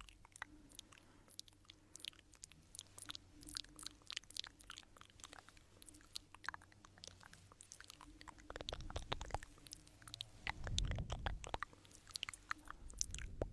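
Close-miked crackling and crisp clicking, many small dry clicks in quick irregular succession, with a louder low rumbling stretch about nine to eleven seconds in.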